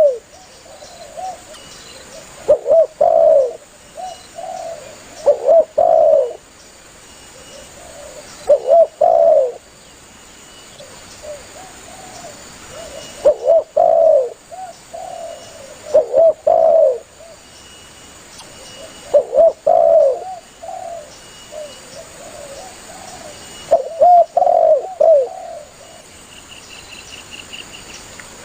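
Spotted dove (tekukur) cooing: short phrases of a few low, rounded coo notes, repeated about every three seconds.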